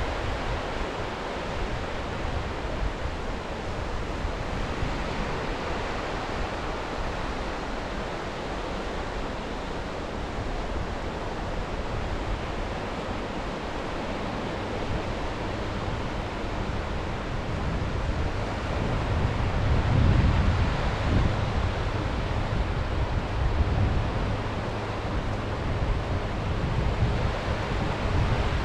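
Sea waves washing on the shore, a steady rush, with wind buffeting the microphone in low gusts that grow stronger about two-thirds of the way in.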